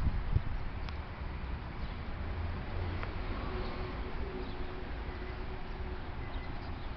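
Outdoor background noise: a steady low rumble, with a faint steady hum that comes in about three and a half seconds in.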